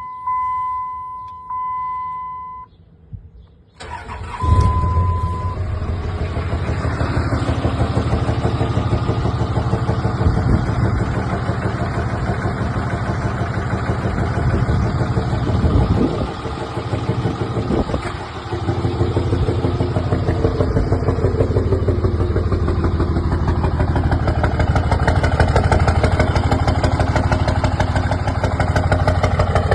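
A few electronic beeps, then a 5.9 Cummins inline-six turbodiesel cranks and starts about four seconds in and settles into a rhythmic idle. Its speed changes briefly twice near the middle. The engine's running noise is one the owner suspects is either a bad injector or an engine knock.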